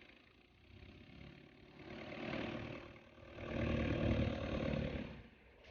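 An engine running, swelling louder twice, about two seconds and four seconds in.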